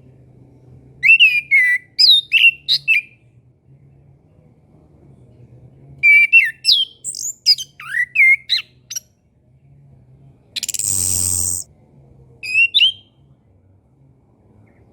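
Chestnut-capped thrush (anis kembang) singing: two runs of quick, sweeping whistled notes, a harsh buzzy note about eleven seconds in, then a short closing phrase.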